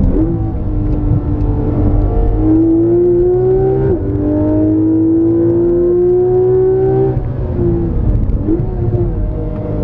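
Porsche 991 GT3 RS's naturally aspirated 4.0-litre flat-six, heard from inside the cabin, pulling hard with rising pitch. Its pitch drops sharply at an upshift about four seconds in, climbs again, then falls away as the driver lifts from about seven seconds, with a quick rev blip of a downshift near the end.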